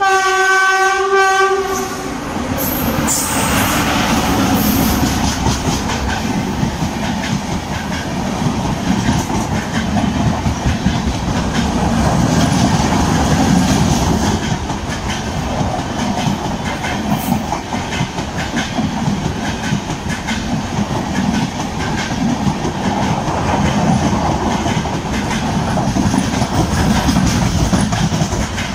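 Electric locomotive's horn sounding once for about two seconds, then the steady rumble and clickety-clack of the Anuvrat Express's red LHB coaches passing close by.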